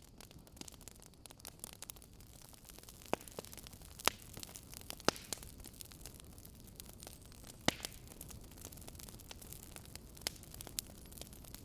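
Wood fire crackling: a steady patter of small sharp crackles with a handful of louder pops.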